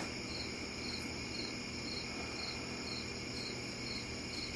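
Microwave oven running with a steady low electrical hum, heating halved grapes. A faint high-pitched chirp repeats about twice a second over the hum.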